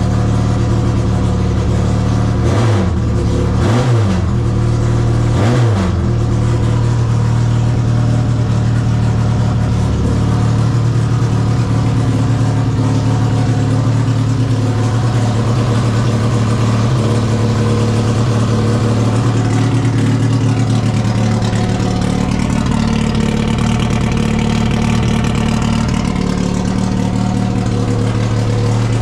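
1963 MGB race car's B-series four-cylinder engine idling while it warms up after a cold start. The throttle is blipped three times in quick succession in the first few seconds, then it settles back to a steady idle.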